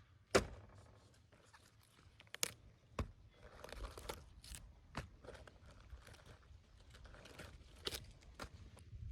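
Irregular knocks, taps and crunching from hands-on food preparation, with a sharp knock about half a second in and further scattered clicks and soft rustling.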